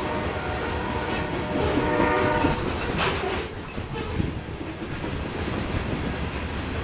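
Covered hopper cars of a Union Pacific grain train rolling past, wheels rumbling and clacking on the rails. A locomotive horn chord sounds from the start for about three and a half seconds, then stops.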